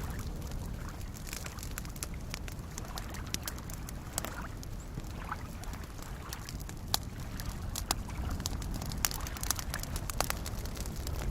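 Campfire crackling, with irregular sharp pops that come more often in the second half, over soft waves lapping with a steady low rumble.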